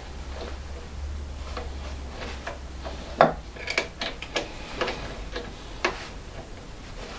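A run of short clicks and knocks from tools and the workpiece being handled at a wood lathe, about two a second, the loudest about three seconds in. A low hum sounds under the first three seconds, then drops away.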